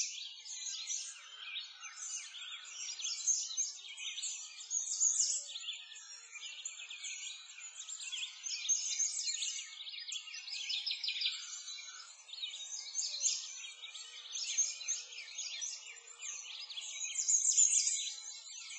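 A continuous chorus of many small birds chirping and twittering, rising and falling in loudness and loudest near the end.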